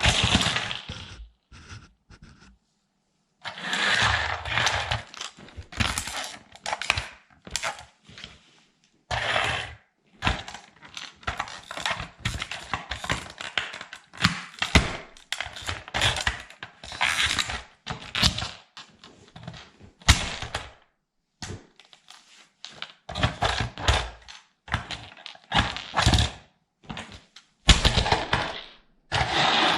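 Plastic toy military truck being crushed under a sandal on a hard floor: irregular cracking, snapping and knocking of plastic parts, with short pauses between bursts.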